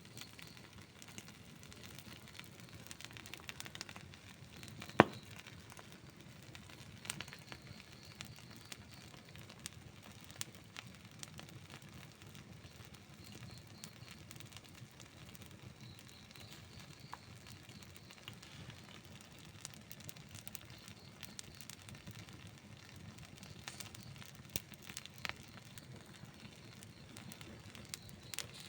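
Outdoor wood campfire burning, with a steady soft hiss and scattered crackles and pops. One sharp, loud pop about five seconds in.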